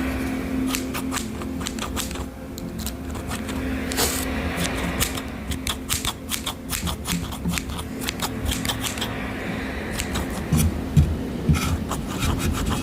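Quick irregular clicks and taps of objects handled close to the microphone, over a steady low hum.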